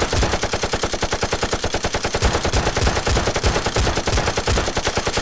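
Sustained automatic gunfire: a rapid, even stream of shots with no pause, in the style of a machine-gun sound effect.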